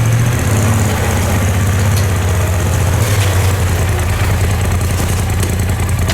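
Off-road vehicle's engine idling steadily, with newly replaced CVT primary clutch and housings.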